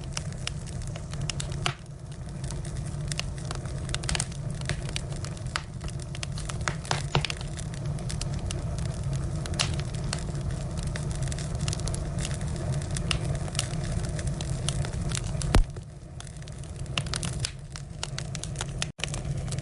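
Firewood burning in a fire, with a steady low rush and frequent irregular crackles and pops; one sharp, loud pop comes about three-quarters of the way through.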